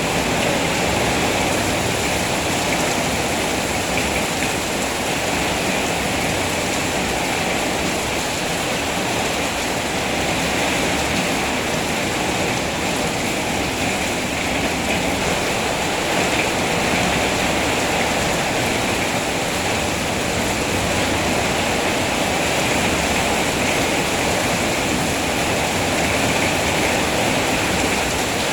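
Steady rain falling: an even, unbroken hiss of water that holds the same level throughout.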